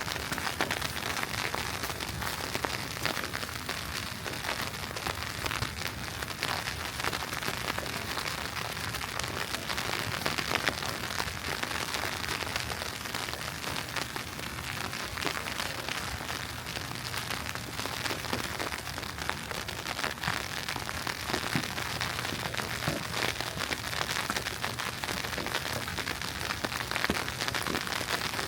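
Wet snow falling in a steady, dense stream of fine ticks as it strikes the surfaces around.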